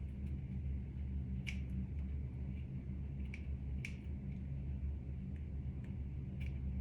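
A few faint, light clicks a second or more apart over a steady low hum.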